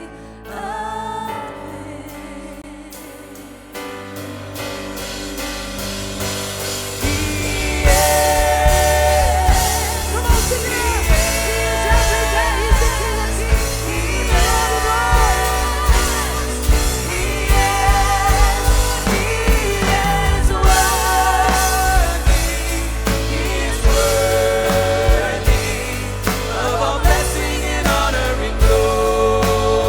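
Live worship band playing an instrumental build: it starts soft, drums and cymbals build in over the first few seconds, and from about eight seconds in the full band plays loudly with bass and drums. Long held melody notes with vibrato ride over the top.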